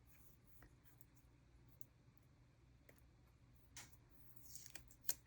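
Faint clicks and rustles of sticker sheets and paper being handled, with a few louder ticks near the end.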